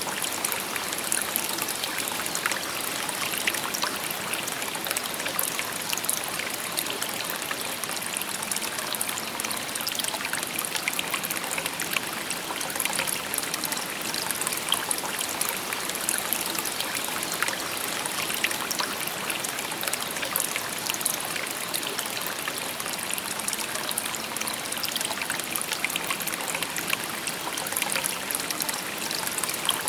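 Shallow river babbling steadily over stones, a continuous bright trickling and splashing.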